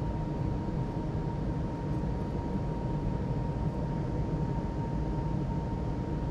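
JCB Pothole Pro's engine running steadily, heard inside its cab, with a thin steady whine above the low rumble.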